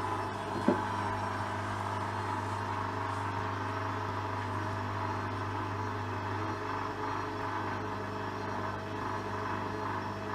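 Hoover washing machine running with a steady motor hum as it tries to spin a very unbalanced bedding load, a spin that fails to get going. A short falling squeak comes just under a second in.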